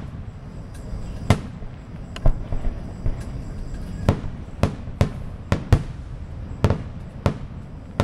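Aerial fireworks shells bursting overhead: about a dozen sharp bangs at uneven intervals, a few close together around the middle, each trailing off in a short echo.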